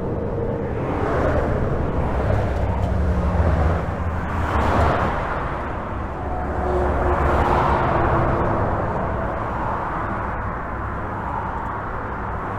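Continuous highway traffic heard from beneath a bridge: a steady rumble of tyres and engines, with vehicles passing one after another so the sound swells and fades every couple of seconds.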